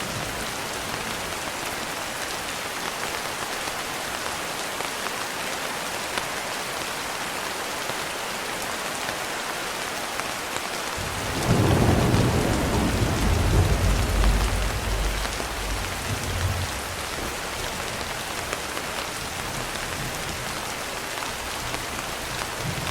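Steady rain falling, with a roll of thunder about halfway through: a low rumble that swells for a few seconds, then fades back under the rain.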